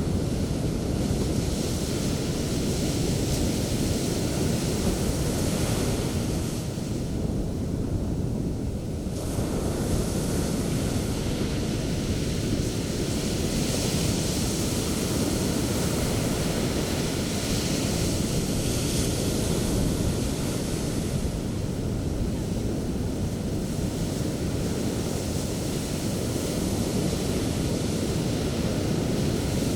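Sea waves breaking on the shore in continuous surf, the hiss of the white foam swelling and fading as waves break and wash out, with a brief lull about seven seconds in.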